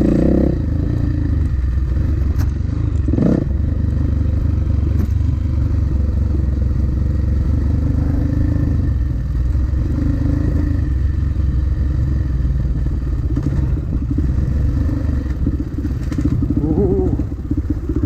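Dirt bike engine running steadily under load, with occasional knocks and clatter from the bike; its pitch wavers up and down near the end.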